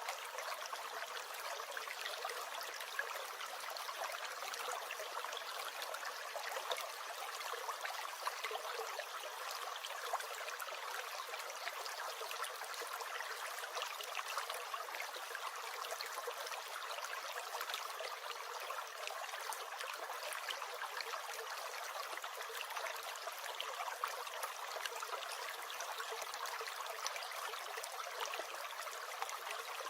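Small stream gurgling and trickling steadily, a constant splashing wash with little low rumble.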